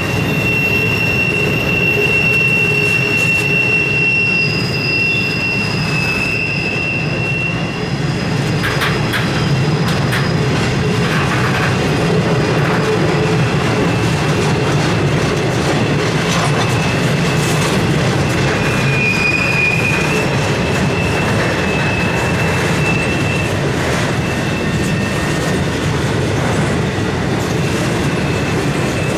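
Freight cars of a long CSX intermodal train rolling past, with a steady rumble and clatter of steel wheels on rail. High-pitched wheel squeal comes and goes over the rumble: wheel flanges grinding against the rail on a curve.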